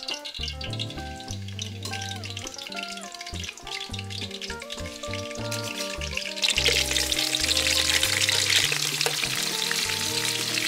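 Pork ribs frying in hot oil in a wok: a light crackle at first, then a loud sizzle from about six and a half seconds in, as the ribs go into the oil.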